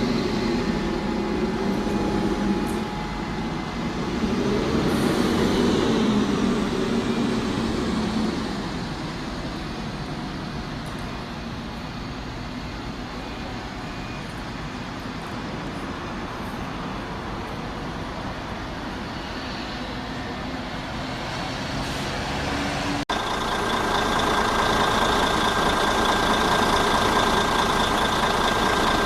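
Diesel bus engine running, loud at first and then fading as it moves off. After a sudden change about 23 seconds in, a vehicle runs with a steady high-pitched warning tone sounding over it.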